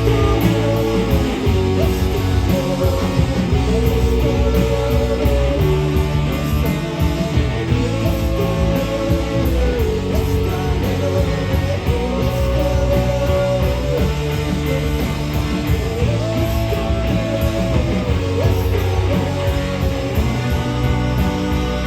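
Live rock band playing a passage without lyrics, led by guitar, with a slow melody line of long held notes over a steady full-band backing.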